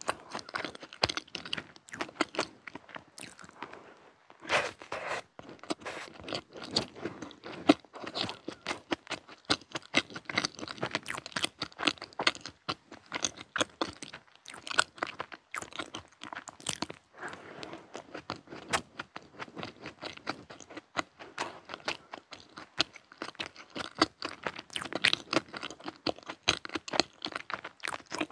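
Close-miked crunching and chewing of a chocolate-coated snack: many sharp, crisp crunches in quick succession as it is bitten and chewed.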